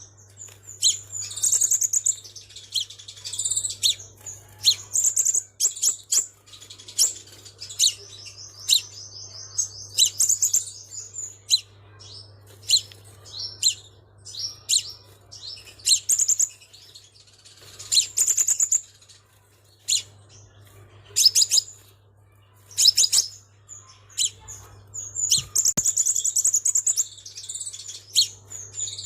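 Sunbird singing: bursts of thin, high chirps and fast buzzy trills, with short sharp notes in between, over a faint steady low hum.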